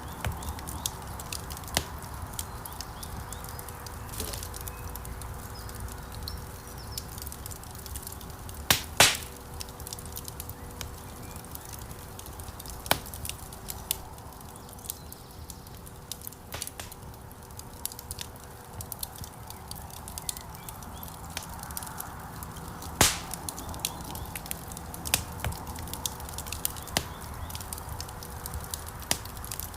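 Wood fire burning in a fireplace: a steady low rush of flame with scattered sharp crackles and pops. The loudest pops come about nine seconds in and again around twenty-three seconds.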